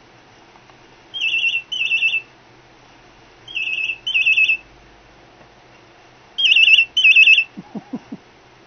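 Cockatiel imitating a phone ringing: three double warbling trills, ring-ring, each pair a few seconds apart, the last pair the loudest. Three short, low sounds follow near the end.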